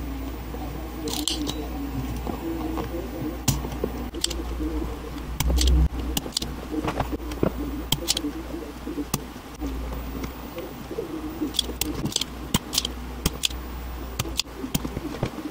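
A dove cooing over and over in the background, with scattered sharp clicks and taps over a steady low hum.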